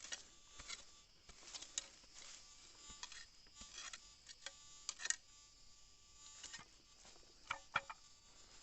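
Irregular soft rustles and crunches of footsteps and brushing through ground vegetation, the sharpest about five seconds in and a close pair near the end, over a faint steady high-pitched hum.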